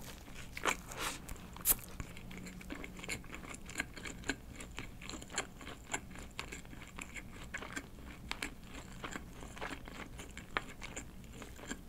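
A person chewing a mouthful of burger close to the microphone: soft, irregular crunches and small wet mouth clicks.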